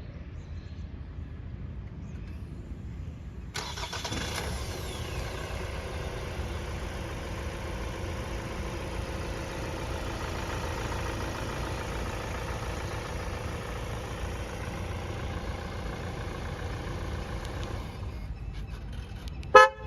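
Kia Sonet engine started by remote, catching suddenly a few seconds in, idling steadily, then shutting off near the end. A brief loud toot follows just after it stops.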